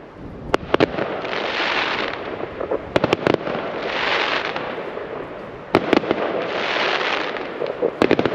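Fireworks going off: sharp bangs, some single and some in quick rattling clusters, with a burst of hiss between them every few seconds.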